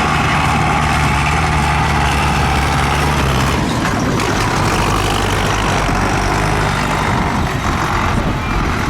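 Tractor engine running loudly and steadily, its note changing about three and a half seconds in.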